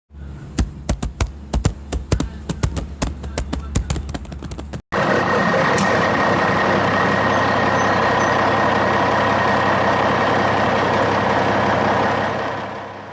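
Vehicle engine sounds: a low engine hum under a fast, irregular clatter of clicks. After an abrupt cut comes a loud steady rushing noise with a thin high whistle, fading out near the end.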